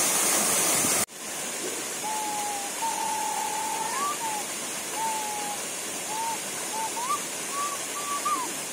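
Waterfall and stream water rushing in a steady hiss. About a second in it cuts abruptly to a softer rush. Over it, from about two seconds in, comes a run of short, thin whistled notes, several rising at their ends.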